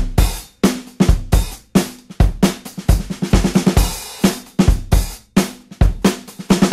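Background music: a steady drum-kit beat of kick drum, snare and cymbals.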